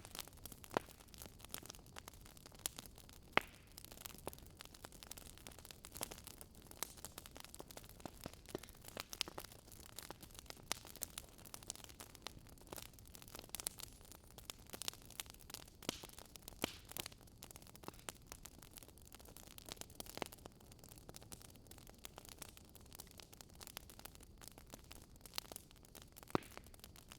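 Wood fire crackling softly, with irregular small pops over a faint steady hiss.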